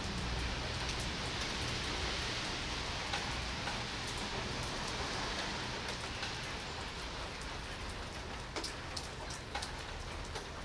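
Steady rain falling on pavement and foliage, an even hiss with a few faint drop ticks near the end.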